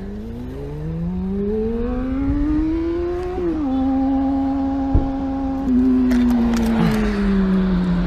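Motorcycle engine accelerating: its pitch climbs steadily for about three seconds, drops suddenly as it shifts up a gear, holds steady, then eases off slowly toward the end. A single sharp click comes about five seconds in.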